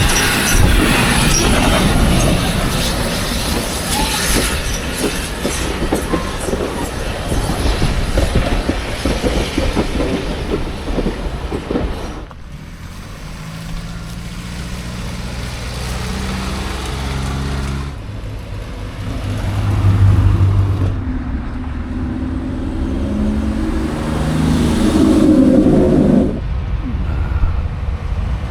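Railway train running on track, with rapid clicking from wheels and rail; the sound changes abruptly about 12 s in, and again around 18 s and 26 s, to quieter stretches with a low engine-like hum.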